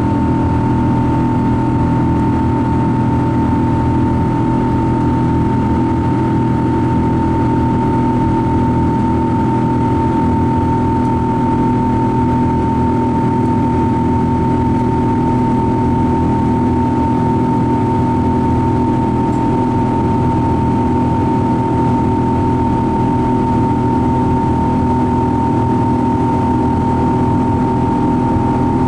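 Steady engine noise of a Boeing 777-200 heard inside the cabin: a constant low hum with a steady whine on top, holding even throughout.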